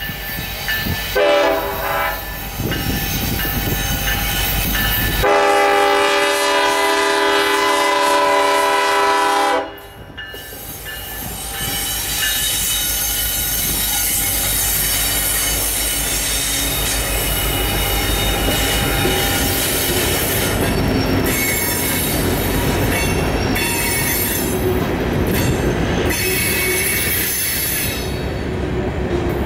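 Union Pacific diesel locomotive 8619 sounding its horn for a grade crossing: a short blast about a second in, then a long blast held for about four and a half seconds that cuts off suddenly. The locomotive then rumbles past close by, followed by a string of empty rock gondolas rolling along the rails with wheel noise and some squealing.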